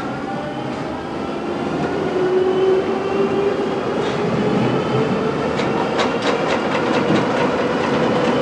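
Tram running along its line, heard from aboard, its motor whine rising slowly as it gathers speed. A quick run of wheel clicks over the rails comes about four to seven seconds in.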